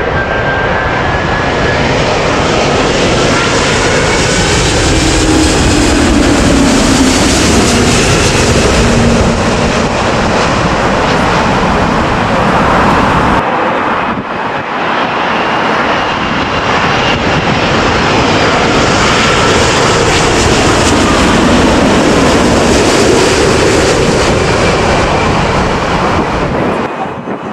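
Jet airliners on final approach passing low overhead to land, their engines loud, with a falling whine as the first one goes over. An abrupt cut about halfway through brings in a second low pass.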